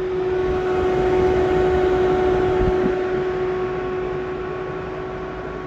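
Steady electrical hum from roadside equipment, one held pitch with a few overtones, over passing road traffic that swells about a second in and slowly fades.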